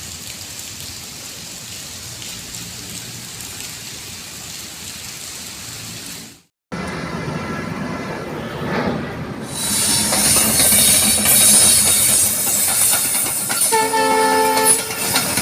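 Steady rain hiss, then an abrupt cut to a train running past, growing louder, with its horn sounding one short blast near the end.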